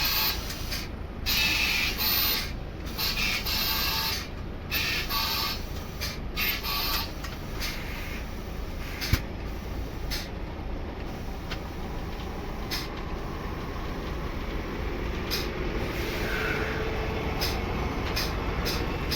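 Truck air suspension hissing in short bursts as it raises the chassis, then the truck's engine running steadily while it reverses under the trailer, with a single sharp knock about nine seconds in.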